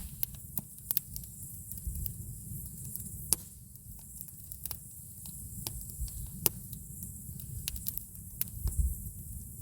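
Wood campfire crackling: irregular sharp pops and snaps, the loudest about a third and two thirds of the way through, over a low rumble.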